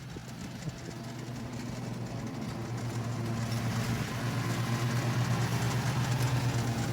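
Husqvarna R322T lawn tractor's engine running at a steady pitch, growing steadily louder.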